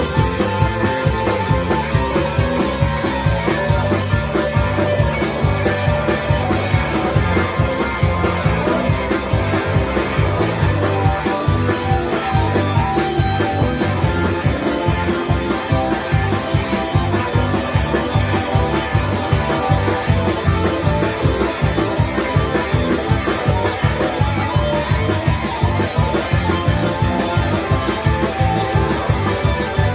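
Band playing rock music with guitar over a steady beat.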